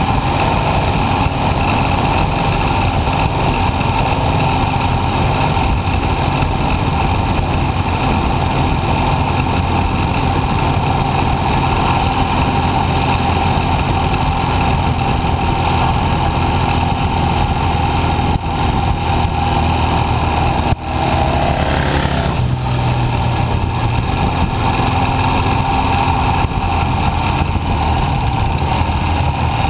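Motorcycle engine running while riding, under a steady rush of wind noise. The sound dips briefly about twenty seconds in.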